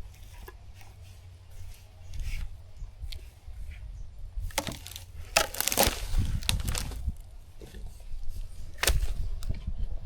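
Irregular sharp cracks and snaps of wood, clustered together a few seconds in, with one more loud crack near the end, over a low rumble.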